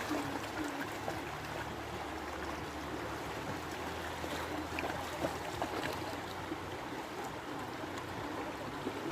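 River water flowing: a steady rushing noise with a faint low hum underneath.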